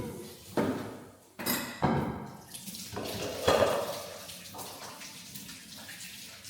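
Water running and splashing in a sink. It comes in several sudden surges over the first few seconds, then settles into a steady flow.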